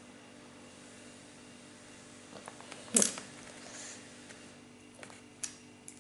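Plastic construction-set pieces being handled and fitted together: one sharp clack about three seconds in and a few lighter clicks, over a faint steady hum.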